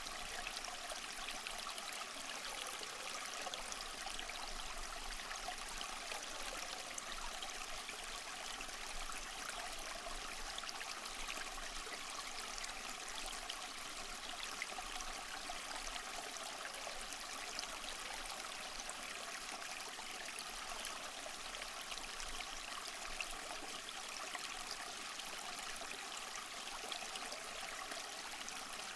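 Small waterfall running steadily over mossy rocks: an even, unbroken splashing hiss of falling water.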